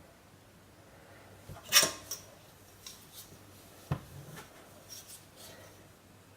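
Knocks and clatter from cutting and handling bars of freshly hardened curd soap on a work surface: a sharp clack about two seconds in, a dull thud about four seconds in, and several lighter taps after.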